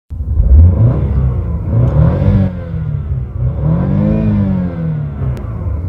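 BMW car engine revved in Park: a short blip about two seconds in, then a longer rev that climbs to around 5,500 rpm and falls back.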